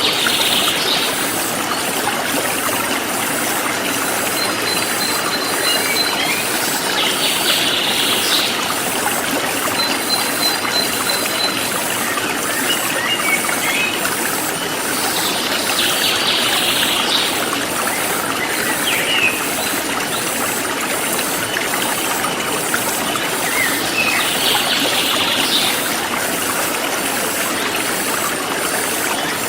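A forest stream running steadily. A bird calls at intervals of about eight or nine seconds, and short high trills come in between.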